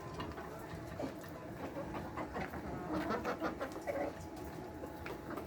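Layer hens clucking and calling in short broken bursts, busiest in the middle, over a steady low background hum.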